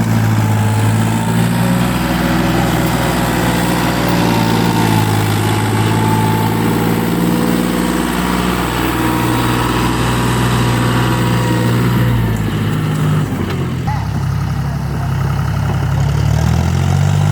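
Tractor engine running with a steady, deep drone. About two thirds of the way through its note drops and changes, and near the end the pitch wavers up and down as the engine speed changes.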